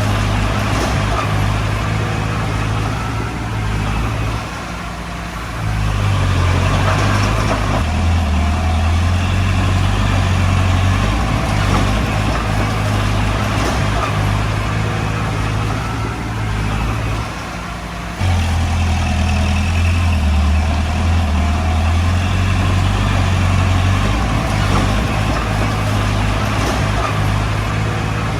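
Heavy-machine diesel engine running steadily, easing off twice for about a second and then pulling hard again, as when working under load.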